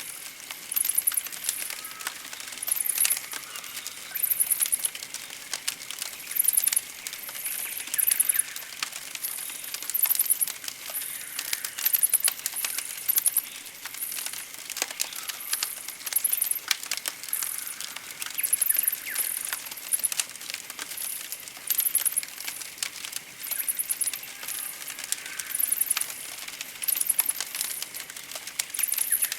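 Campfire crackling with many sharp pops and snaps, under a layer of very high-pitched bird chirps that come in short bursts about once a second.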